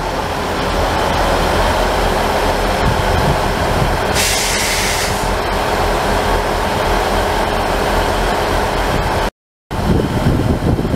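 Class 158 diesel multiple unit pulling into the platform and slowing, its underfloor diesel engines running steadily over wheel and rail noise. A brief hiss comes about four seconds in, and the sound cuts out for a moment near the end.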